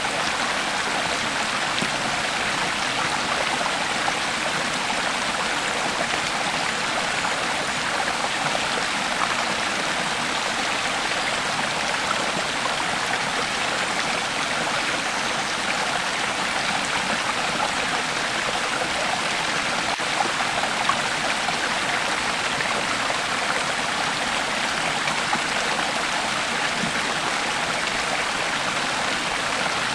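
Creek water flowing over stones in a steady, even rush and babble.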